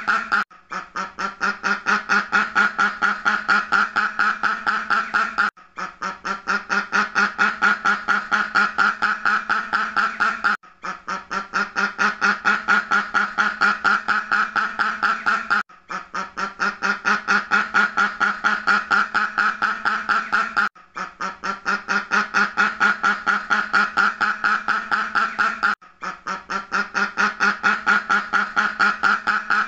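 Duck quacking in fast, unbroken runs of quacks, several a second. The same stretch of about five seconds repeats as a loop, with a brief break between repeats.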